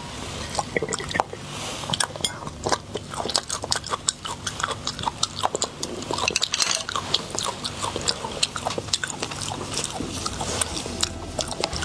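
A person eating close to the microphone: wet chewing and lip smacks, an uneven run of small clicks.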